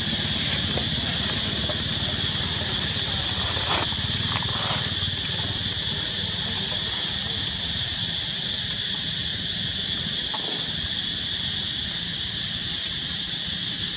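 Steady, high-pitched chorus of insects droning without a break, over a constant low rumble. A few brief sharp sounds cut in about four seconds in and again about ten seconds in.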